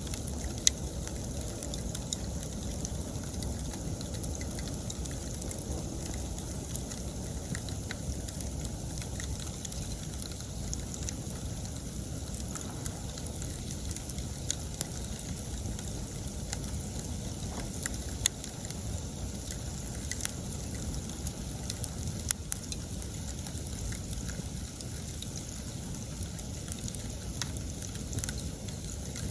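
Wood campfire burning with a steady low rumble and constant crackling, broken by a few sharp, louder pops.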